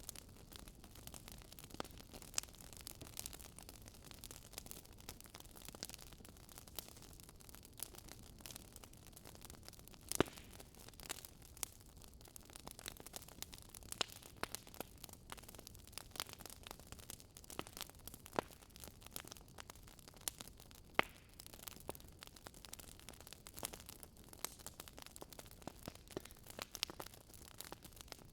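Fireplace fire crackling: irregular sharp pops and snaps over a soft steady hiss, with a few louder pops, the sharpest about ten and twenty-one seconds in.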